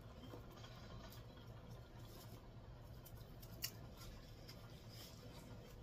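Faint chewing of a mouthful of chalupa, with soft crunches and mouth clicks and one sharper click about three and a half seconds in.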